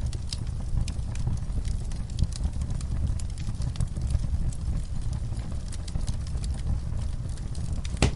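Fire crackling in a fireplace: a steady low rumble of flame with scattered sharp pops at irregular intervals, one louder pop near the end.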